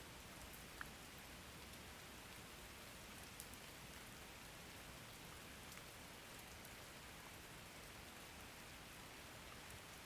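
Faint, steady rain hiss with a few scattered drops ticking, one clear tick about a second in and another about three seconds later.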